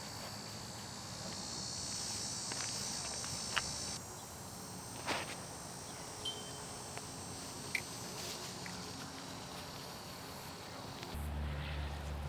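Outdoor chorus of crickets or other insects trilling at a high pitch. It is strongest in the first few seconds and fainter afterwards, with a few sharp knocks scattered through. A low steady rumble starts near the end.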